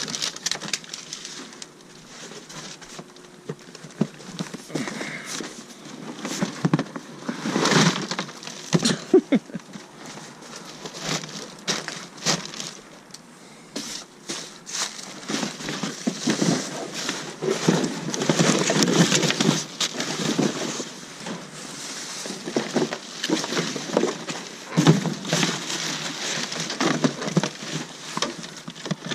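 Cardboard boxes of electronic e-waste being rummaged through and shifted in a dumpster, with irregular rustling, crinkling, scraping and knocks.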